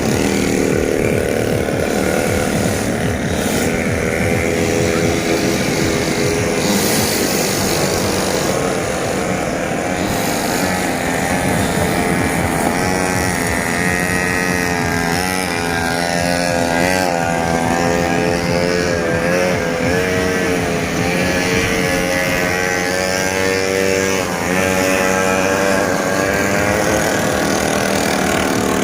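A small engine running steadily, its pitch rising and falling as it revs up and down.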